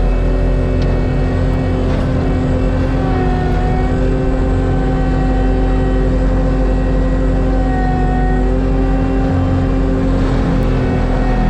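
ASV RT-120F compact track loader running at high throttle with its Fecon Bullhog forestry mulcher drum spinning: a steady engine and drum drone of several stacked tones, their pitch shifting slightly now and then.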